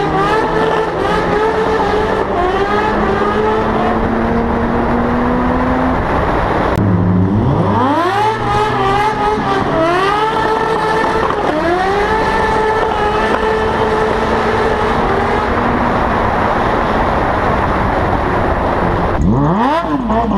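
Sport motorcycle engine heard from the moving bike with wind rushing past. It runs at a steady, slowly climbing pace, then drops off about seven seconds in. Next it revs up in three quick rising sweeps, like acceleration through the gears, holds a steady pace, and revs sharply upward again near the end.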